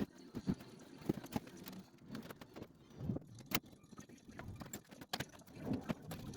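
Irregular knocks, clinks and thuds of hands-on work with metal parts and tools, with about eight sharp clicks spread across the few seconds.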